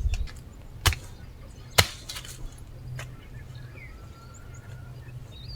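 Two sharp knocks a little under a second apart and a weaker one about a second later, over faint bird chirps and a thin whistled note near the end.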